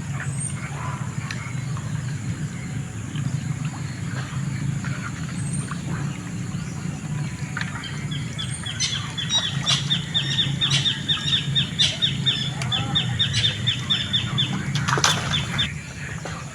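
A bird calling a fast run of short high chirps, about four a second, through the second half, with a few single chirps before it, over a steady low rumble.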